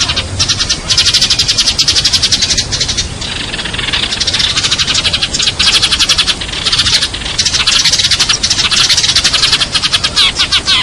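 Sparrows chirping in a fast, unbroken stream of high chirps, many a second, with stretches where the calls overlap into a continuous chatter: a sparrow lure call recording.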